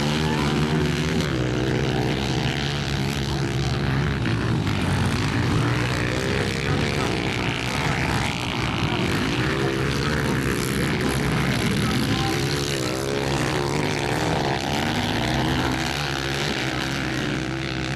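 Several motocross motorcycles racing, their engines revving up and down and overlapping in a continuous mix.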